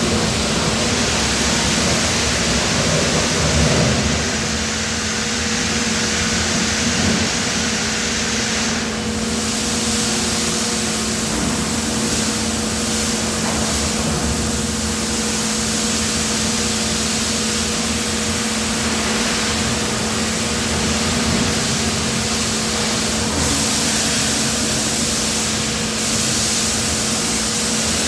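Steady running of factory machinery at a die casting machine: a constant hum with two steady tones under an even hiss.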